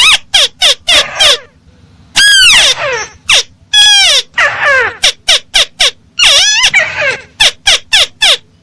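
Crake (burung tikusan) calls played as a bird-trapping lure: loud, harsh notes repeated in quick runs, mixed with a few longer notes that rise and then fall in pitch.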